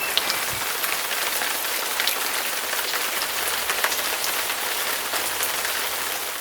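Steady hiss of rain with scattered fine drop ticks, fading out near the end.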